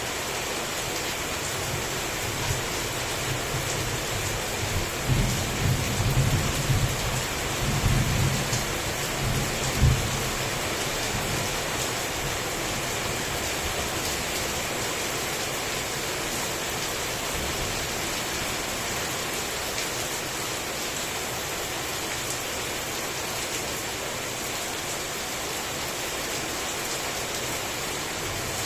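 Heavy rain falling steadily, with a low rumble of thunder through the first ten seconds that swells and ends in a sharp clap about ten seconds in, then steady rain alone.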